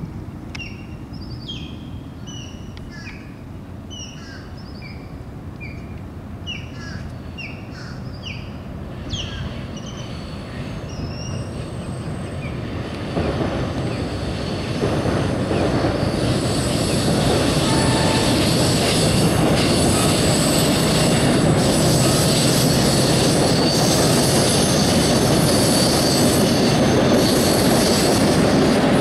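Birds call with short falling notes, then a MARC commuter train of bilevel coaches, pushed from the rear by its MP36 diesel locomotive, rolls onto a steel trestle bridge. The rumble of the train grows about halfway through and becomes loud and steady, with a high-pitched wheel squeal ringing over it.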